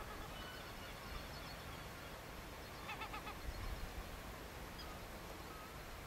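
Birds calling outdoors over a steady wind rumble, with a short run of rapid calls about three seconds in and scattered faint chirps around it.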